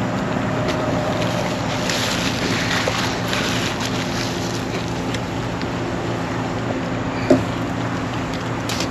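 Steady cab noise of a 1966 Ford F-250: an even engine drone under a haze of wind and road noise. There is one short knock about seven seconds in.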